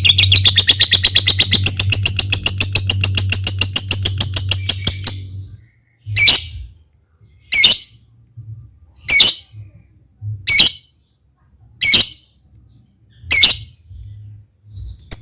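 Lovebird chattering in a long, rapid run of high repeated notes (the 'ngekek'), which stops about five seconds in. It is followed by six single sharp calls spaced about a second and a half apart.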